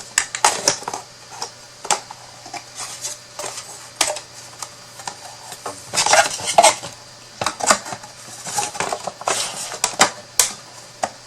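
Thin wooden box pieces clicking and clattering as they are handled and slotted together by their tabs, in irregular clusters of sharp knocks that are busiest about halfway through and again near the end.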